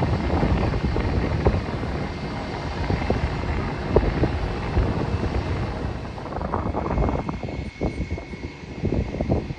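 Aircraft engines rumbling with a faint steady whine, the noise thinning out about two-thirds of the way through as gusts of wind buffet the microphone.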